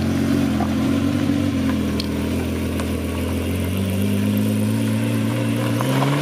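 Ferrari Testarossa's flat-12 engine running at low revs as the car rolls slowly off. The pitch is steady, dips slightly about midway, then begins to rise just before the end as the car starts to accelerate.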